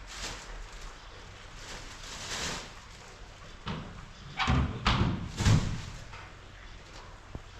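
A few knocks and thuds in a quick cluster, the loudest about five and a half seconds in.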